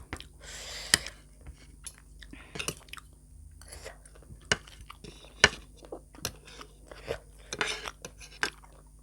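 Close-up mukbang eating sounds: chewing and crunching, with scattered sharp clicks and a couple of short noisy bursts.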